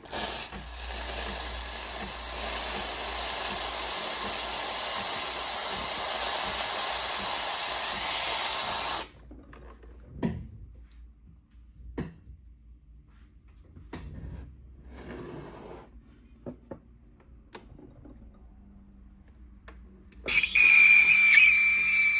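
Solis Barista Perfetta Plus espresso machine running loudly and steadily for about nine seconds, then cutting off suddenly. A few light clicks and knocks follow, and music comes in near the end.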